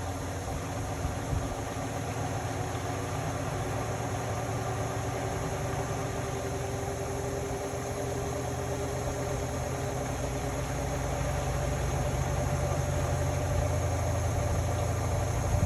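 Indesit Innex BWE 91496X washing machine running, a steady motor hum and drum rumble, with a brief knock about a second in and the sound growing slightly louder over the last few seconds.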